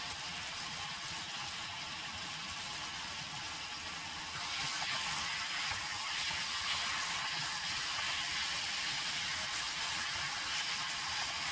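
Spicy gochujang-marinated pork and vegetables sizzling as they stir-fry in a hot pan, a steady hiss that grows a little louder about four seconds in.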